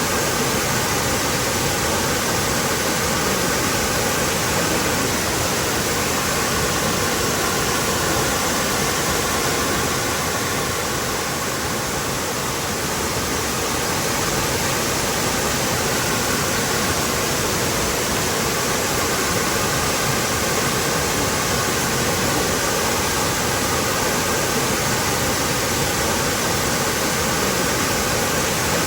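Waterfall: a steady, full rush of falling water that eases slightly for a few seconds around the middle.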